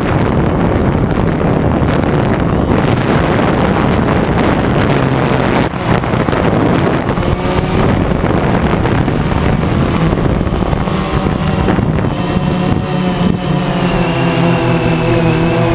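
DJI Phantom 2 quadcopter's electric motors and propellers buzzing steadily in flight, with wind noise on the microphone. Near the end the pitch shifts up and down as the motor speed changes.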